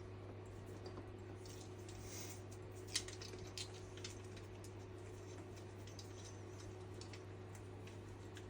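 Faint, scattered clicks and light metal taps of hand tools working on the cylinder-head bolts, with one sharper click about three seconds in, over a steady low hum.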